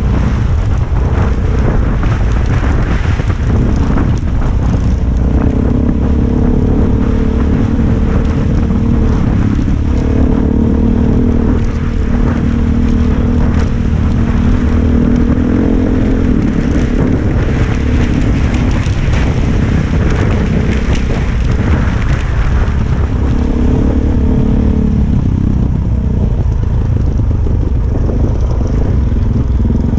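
Suzuki DR-Z400's single-cylinder four-stroke engine running as the bike rides over a loose, stony track, its note shifting up and down with the throttle. Frequent knocks and clatter from stones and the suspension, over a low wind rumble on the helmet microphone.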